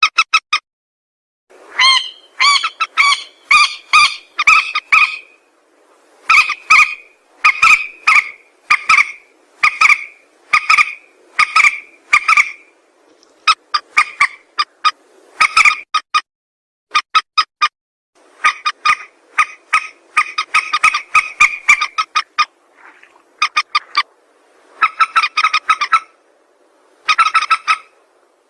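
Mandar sawah (a rail) calling: loud, repeated bouts of short, stacked notes, several to a bout, with brief silent pauses between bouts.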